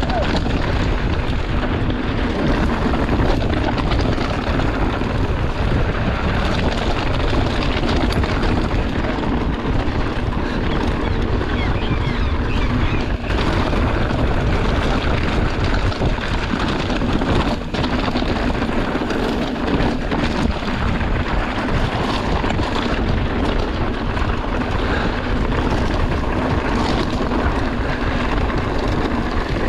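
Steady wind rush on the microphone mixed with the rolling noise of a mountain bike riding a dirt trail.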